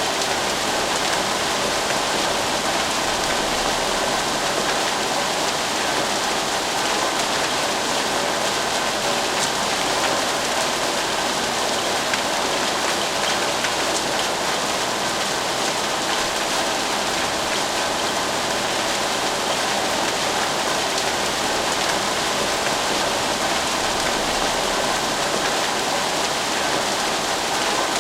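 Steady, fast rainfall: an even, unbroken hiss of rain on surfaces with no let-up.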